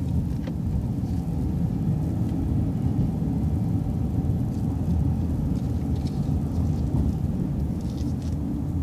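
City transit bus running at low speed: a steady, dense low rumble of engine and road noise heard from inside the bus.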